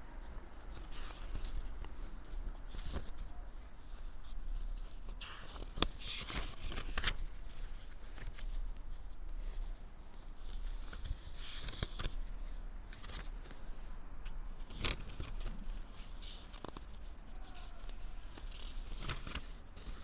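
Irregular rustling and scraping handling noises, with a few sharp clicks scattered through.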